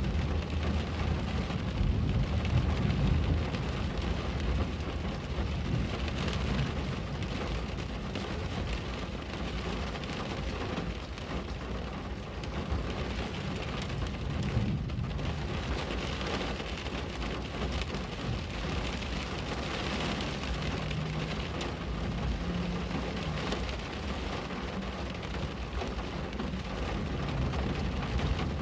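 Steady rain falling on a window pane, an even hiss of drops with a low rumble underneath.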